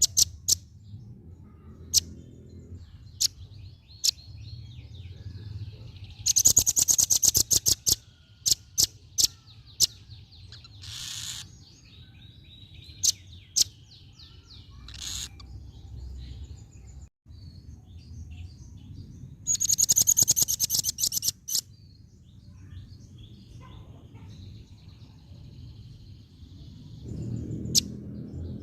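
Female velvet-fronted nuthatch (red-billed rambatan) calling: scattered sharp, high single chips, with two loud, rapid chattering trills, one about six seconds in and one about twenty seconds in. Faint high twittering runs between them over a low background rumble.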